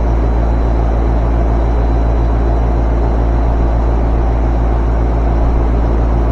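A steady low mechanical rumble with an even hum, unchanging throughout.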